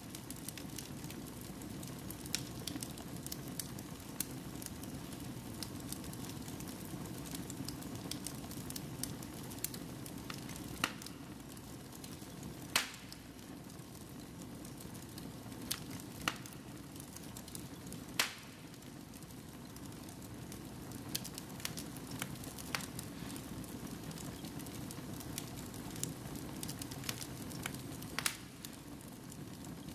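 Wood fire burning in a fireplace: a steady low rush of flame with frequent crackles and a few sharp, louder pops from the burning logs.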